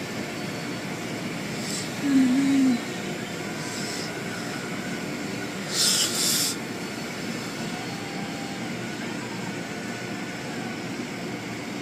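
Automatic car wash machinery running with a steady rumble. There is a brief wavering pitched sound about two seconds in and a short hiss of spray or air about six seconds in.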